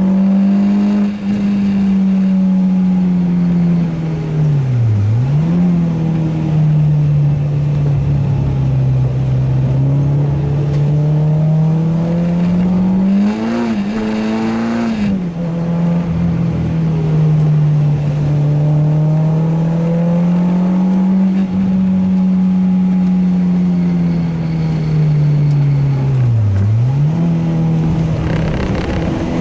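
Renault Clio 2 RS's 2.0-litre four-cylinder engine driven hard around a race track, its note rising and falling with the throttle and gear changes. The pitch sags sharply and recovers twice, about five seconds in and near the end, and climbs then drops about halfway through.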